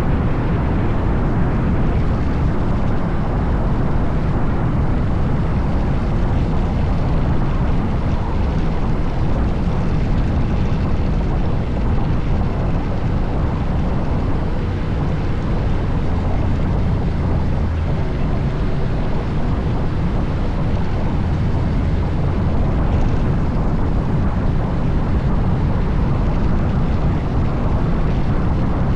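Steady wind rush over the microphone of a Honda Forza 750 maxi-scooter being ridden at speed, with its parallel-twin engine running underneath.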